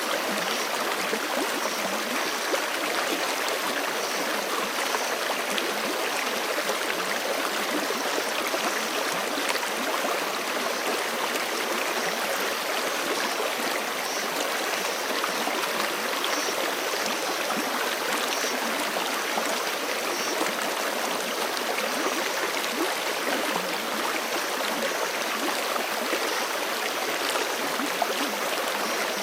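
Forest creek flowing over rocks, a steady rush of running water with small gurgles.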